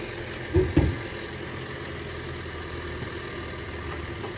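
2022 Toyota Corolla's 2-liter four-cylinder engine idling steadily, with two loud thumps close together about half a second in.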